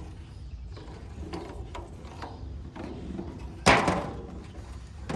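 A stick and a pan being handled while grease is spread around the pan: light scrapes and taps, with one louder knock about three and a half seconds in.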